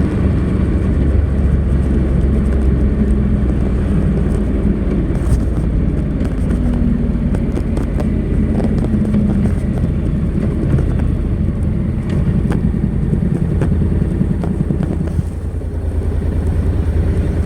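Honda NC700X motorcycle's 670 cc parallel-twin engine running through its stock exhaust while riding, its note fairly steady with slight rises and falls in pitch and a brief easing near the end.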